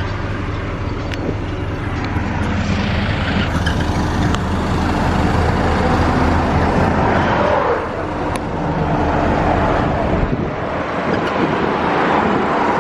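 Highway traffic going past, with vehicles swelling up and fading away one after another. Under it is a steady low engine hum that stops about ten seconds in.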